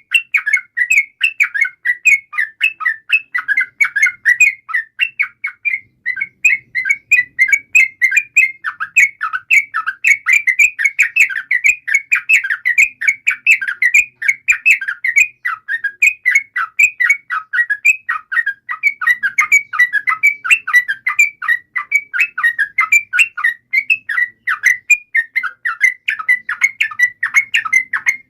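Yellow-vented bulbul (trucukan) song: a long, rapid, unbroken run of short chirps, the continuous 'ropel' singing used as a lure to make other bulbuls sing.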